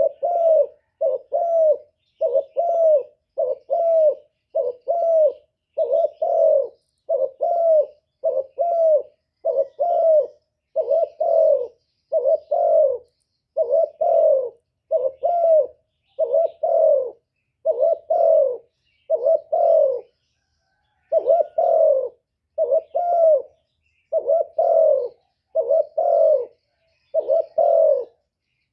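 Spotted dove, a decoy bird, cooing in a long steady series of short low coos, mostly in pairs about once a second, with a brief pause about two-thirds of the way through.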